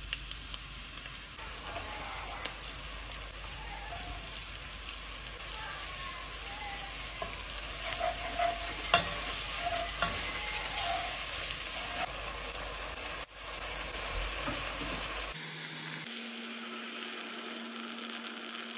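Sliced onion and vegetables sizzling as they fry in a pot, with a spatula stirring and knocking against the pan now and then.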